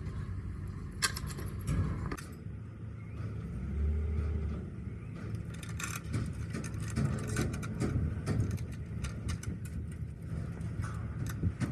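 A vehicle engine rumbling low, with a few knocks near the start and a run of light metallic clinks and rattles through the second half.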